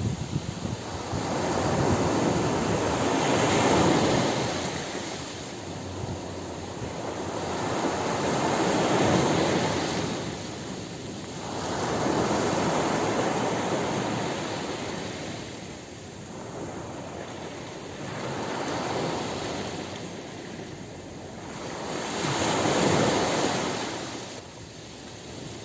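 Ocean surf breaking on a beach: a continuous rushing wash that swells and fades every four to six seconds as each wave breaks and draws back.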